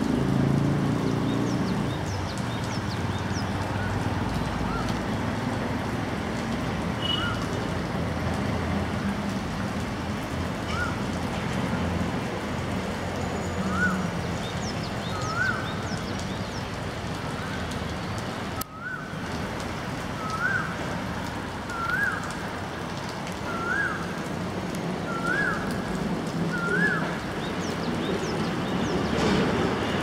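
A bird calling a series of short, rising-then-falling notes, about one every second and a half, growing louder toward the end, over a steady hiss of background noise.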